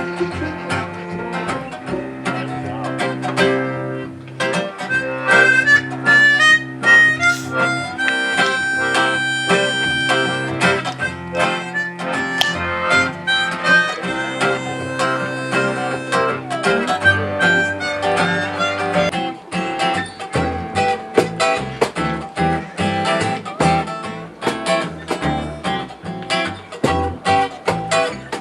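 Live acoustic folk band playing an instrumental break: a harmonica carrying the lead over strummed and plucked acoustic guitar, with no singing.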